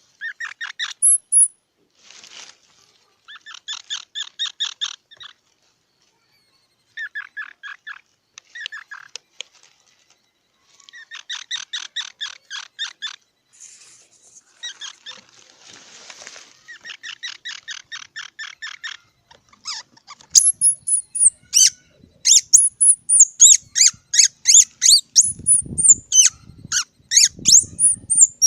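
Squirrel calling in bouts of rapid, evenly repeated chattering notes. From about twenty seconds in come louder, high-pitched squeaky calls that sweep downward, repeated quickly. A few low thumps sound near the end.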